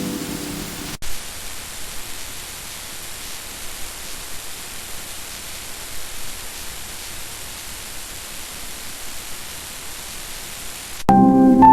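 Steady, even hiss of rain ambience that cuts in abruptly about a second in. Background music fades out over the first second, and music with clear pitched notes starts near the end.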